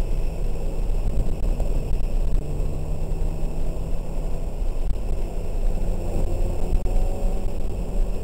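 Steady in-cabin drone of a 2003 BMW 330i ZHP's straight-six engine and road noise at an even, moderate pace, with a low rumble underneath.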